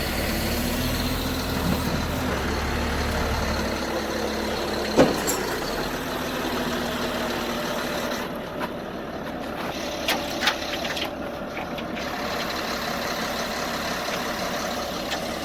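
A vehicle engine running steadily, with a low hum that fades after the first few seconds. There is one sharp knock about five seconds in and a couple of short clicks around ten seconds.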